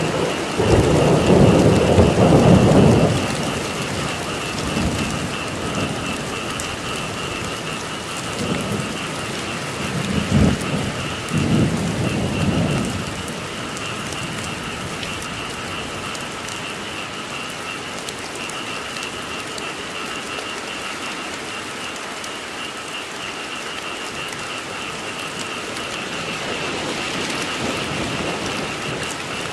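Steady rain with thunder rumbling twice, loudest from about a second to three seconds in and again from about ten to thirteen seconds. A pulsing chorus of frogs calls through the rain in two high bands.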